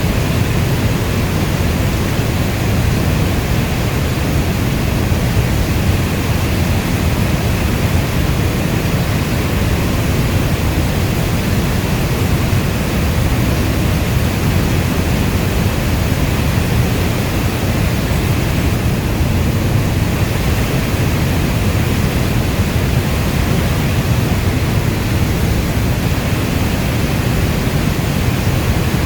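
Heavy rainfall as a steady, deep rushing noise with no distinct drops or thunder.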